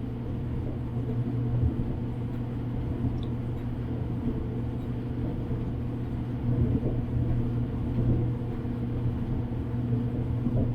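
Whirlpool gas clothes dryer running with a steady motor hum and the drum turning. The gas burner does not light, a fault the owner puts down to weak gas valve coils.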